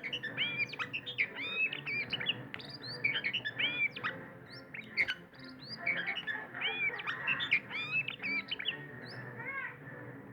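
Oriental magpie-robin (kacer, Sumatran form) singing a fast, continuous, varied run of whistled and chirping notes.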